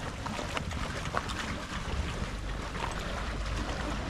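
Wind rumbling on the microphone over the wash of sea water along a rocky shore, with scattered faint clicks.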